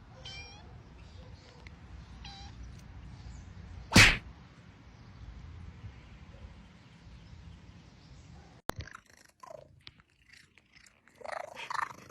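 A cat giving a few short meows, then a single loud, sudden noise about four seconds in.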